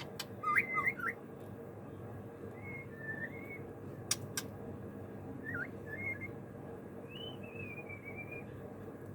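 White-rumped shama (murai batu) singing short, quiet whistled phrases with quick downward-gliding notes, spaced out by pauses. A few sharp clicks come in between.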